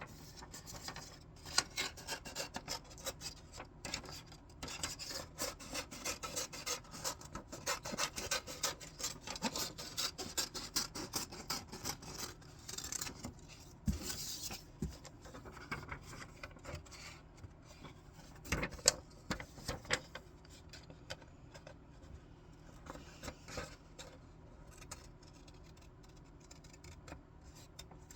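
Scissors cutting through paper with crisp rapid snips and the rustle and rub of the sheet being handled, dense at first and thinning to a few scattered snips in the last several seconds.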